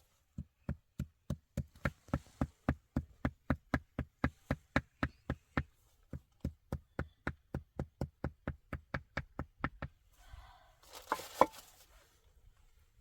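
A long, even run of sharp knocks, about four a second, from something hard being struck over and over, with a short break near the middle. After about ten seconds the knocking stops and gives way to rustling and scraping with one louder knock.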